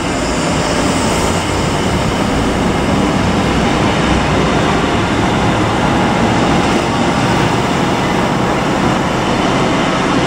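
An HST's Mark 3 coaches passing at speed, a loud steady rush of wheels on rail that builds slightly as the train goes by.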